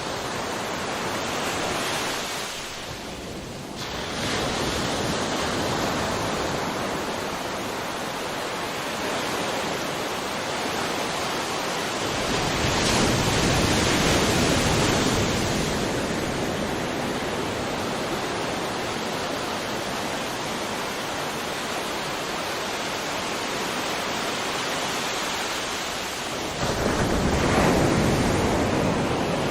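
Sea waves washing on a shore, a continuous rushing surf, with a wave breaking louder about twelve seconds in and another near the end.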